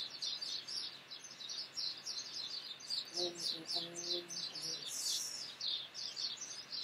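Small birds chirping rapidly and without pause, a dense stream of short high notes, several a second.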